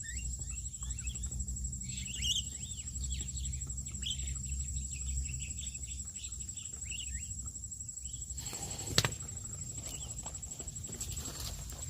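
Birds chirping, many short calls overlapping for about eight seconds, then thinning out. There is a single sharp click about nine seconds in, over a steady high whine.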